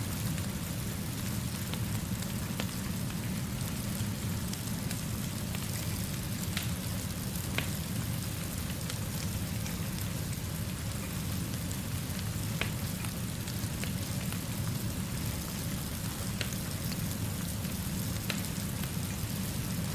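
Steady rainfall with a low, even rumble underneath, and a sharp crackle or pop from a wood fire every few seconds.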